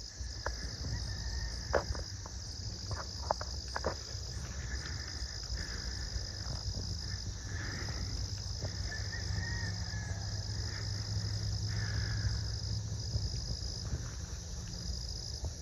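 Field insects trilling, a high steady buzz that runs in long stretches broken by short gaps, over a low rumble. A few faint clicks sound in the first few seconds.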